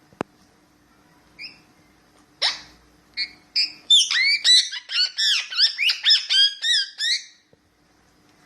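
Ringneck parakeet calling: a click at the start, a few separate chirps, then from about four seconds in a fast run of rising-and-falling chirping calls, about five a second, that stops about a second before the end.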